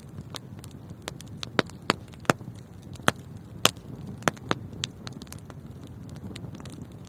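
Wood fire burning in a fireplace: a steady low rumble of flames with sharp crackles and pops, a quick run of loud pops in the middle.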